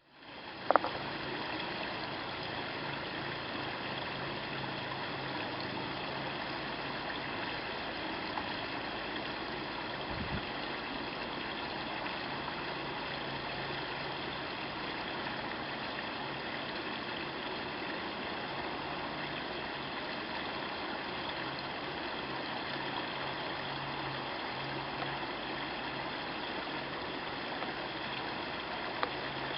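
Steady rush of water from the garden pond's waterfall, with a low steady hum beneath it. A sharp click comes about a second in.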